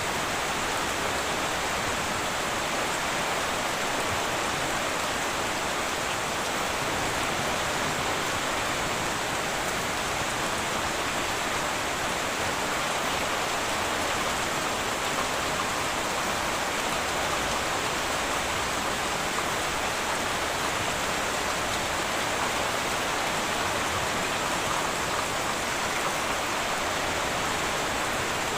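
Heavy rain falling steadily on a tin roof, an even hiss with no single drops standing out.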